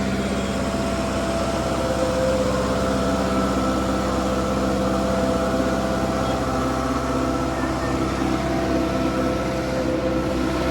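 Kubota 5501 tractor's diesel engine running steadily, a constant hum with several held tones.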